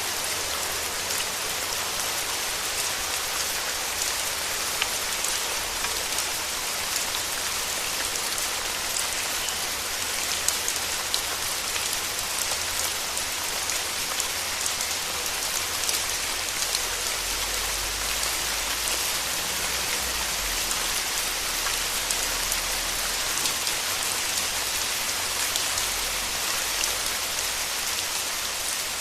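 Steady rain falling, a dense even hiss full of small drop ticks.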